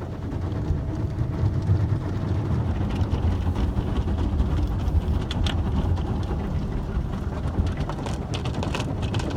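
Automatic car wash machinery running, heard from inside the car: a steady low rumble with a few sharp taps on the body.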